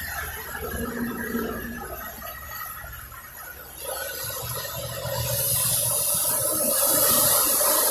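Boat running through rough water: a steady low engine rumble under the rush and hiss of water and spray along the hull, the hiss growing louder over the last few seconds.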